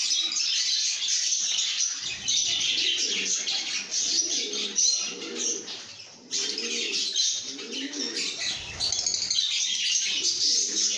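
A flock of lovebirds chirping and chattering continuously in shrill high notes. From about two seconds in, a lower, throaty call repeats under the chatter.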